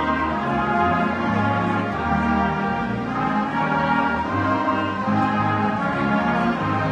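High school marching band playing a slow piece in full sustained brass chords, the notes held and changing every second or so.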